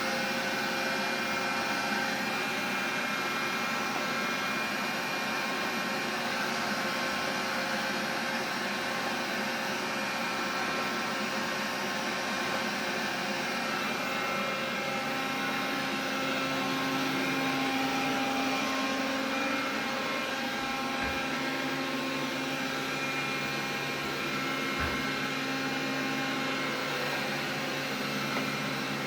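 Xiaomi vacuum cleaner running steadily: a rushing noise with several steady whining tones over it, the extraneous noise the owner is trying to track down. Two faint low knocks come about three-quarters of the way through.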